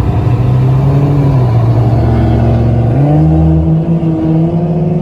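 Car engine and exhaust running, with a steady low engine note. The note dips slightly about a second in, then jumps up about three seconds in and holds higher as the engine revs up under acceleration.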